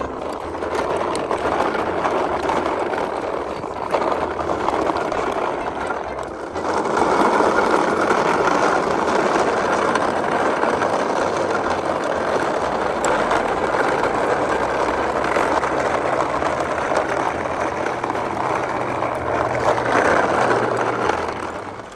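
A kids' toy truck running with a steady mechanical whirr. It gets louder about six and a half seconds in and fades just before the end.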